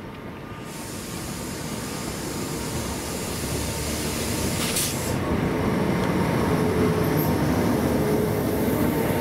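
A train approaching, its rumble of wheels on rail growing steadily louder, with a brief sharp click about halfway through and a steady hum from its running gear coming in near the end.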